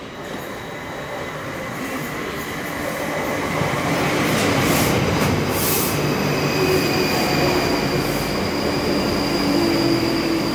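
South Western Railway electric multiple unit running into the platform, its rumble growing louder over the first four seconds as it nears and then holding steady as the carriages pass close by. A thin high-pitched tone comes in about four seconds in.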